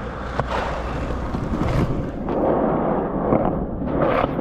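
Skateboard wheels rolling on concrete, a steady rumble with a single sharp click about half a second in.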